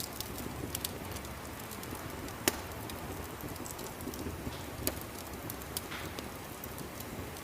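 Fireplace crackling: a steady low rush of fire with scattered sharp pops and snaps, one louder pop about two and a half seconds in.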